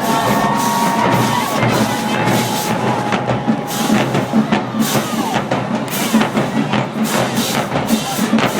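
Marching band drumline playing a fast, busy drum cadence, with held tones sounding over it for the first few seconds.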